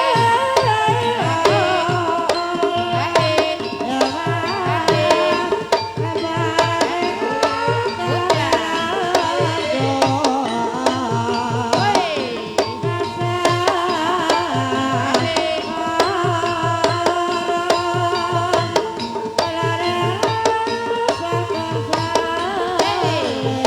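Banyumasan gamelan music for an ebeg dance: kendang hand drums beating a steady, fast rhythm under a ringing pitched melody, with a gliding melodic line weaving over it.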